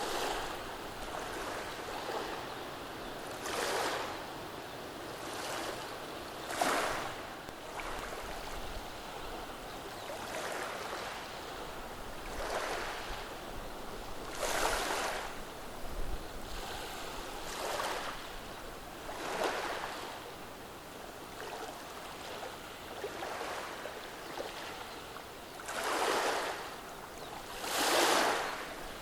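Gentle waves washing over a beach of rounded stones, a hissing rush that swells every couple of seconds, with the two strongest surges near the end.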